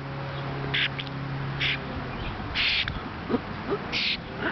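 Small bird splashing and flicking water with its wings in a hand-held cup, four short bursts of splashing.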